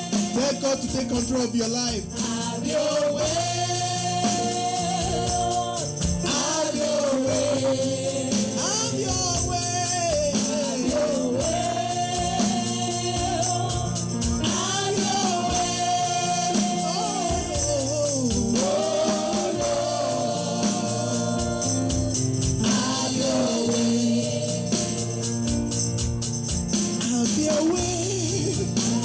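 Gospel worship music: voices singing a melody over instruments, with a steady rattling percussion beat like a tambourine.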